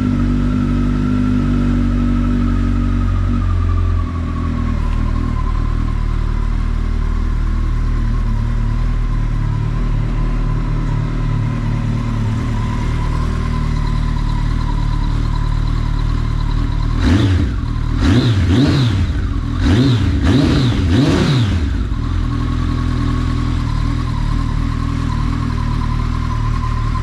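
Kawasaki ZX-14R's inline-four idling through a Two Brothers slip-on exhaust on the stock headers and catalytic converter, the idle settling a little lower about four seconds in. Midway through, five or six quick throttle blips rise and fall in a cluster before it drops back to a steady idle.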